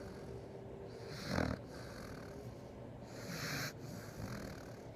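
Maltipoo puppy snoring in its sleep: a rough snore about a second in, then a hissing, airy breath about two seconds later.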